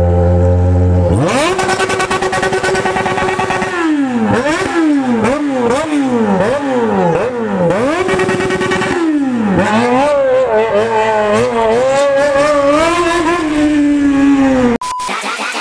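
A steady low engine drone gives way about a second in to a motorcycle engine revving hard, its pitch climbing and swinging up and down again and again. The engine sound cuts off abruptly near the end.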